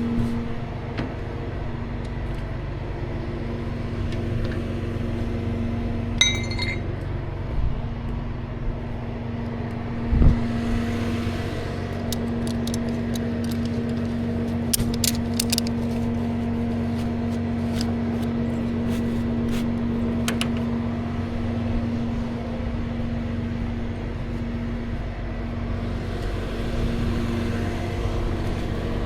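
Tow truck driving, a steady engine and road drone with light clinking rattles through the middle stretch and a single thump about ten seconds in.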